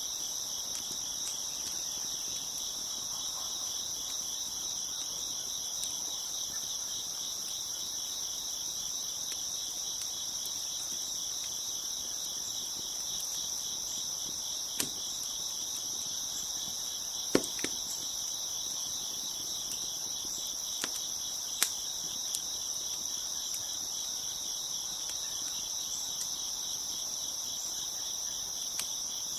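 A steady chorus of crickets chirping throughout, with a few sharp pops from a crackling wood fire scattered through the second half, the loudest of them about two thirds of the way in.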